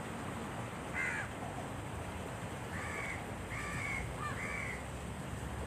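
A bird calling: one short harsh call about a second in, then a run of three or four calls near the middle, over a steady background hiss.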